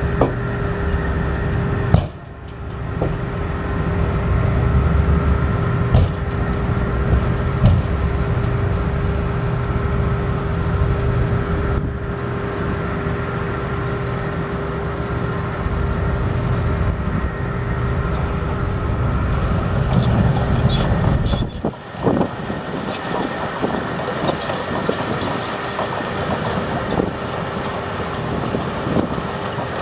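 Heavy engine running steadily, a low rumble with a constant whine over it. It dips briefly twice, about two seconds in and again near two-thirds of the way through.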